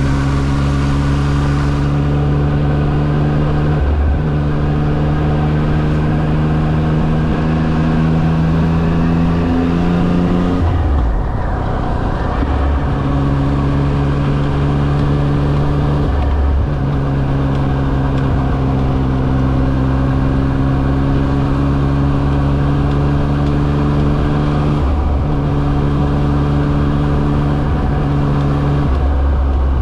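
Yamaha XSR900's three-cylinder engine pulling steadily under way, its note climbing slowly and dipping briefly at each of several gear changes, with wind noise underneath.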